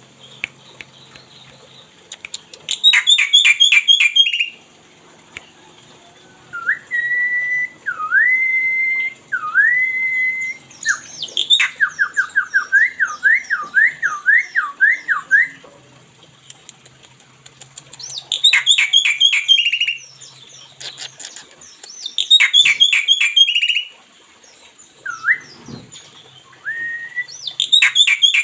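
A pet songbird singing in phrases: bursts of fast chattering notes, clear rising-and-falling whistles, and a rapid warbling trill about halfway through, with short pauses between phrases.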